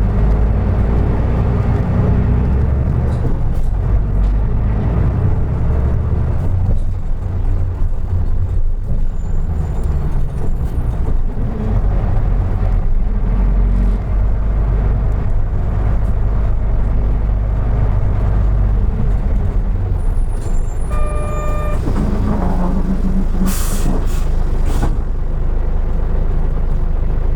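Isuzu Erga Mio KK-LR233J1 city bus heard from inside, its diesel engine running under way with a steady low rumble. About two-thirds of the way through a short electronic beep sounds, followed a few seconds later by two or three sharp bursts of air hiss from the bus's air system.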